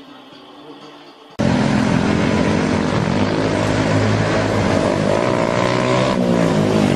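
A motorcycle engine running hard under wind noise, cutting in suddenly about a second and a half in, its pitch dipping briefly near the end.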